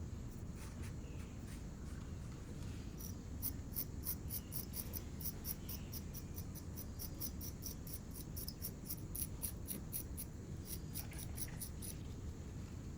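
Rapid short scratching strokes of a sculpting tool on coarse chamotte clay, about three or four a second, starting about three seconds in and stopping near the end.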